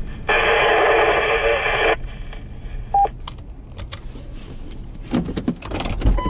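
Two-way radio transmission coming through as a burst of garbled static for about a second and a half, unreadable, followed by a short beep about three seconds in.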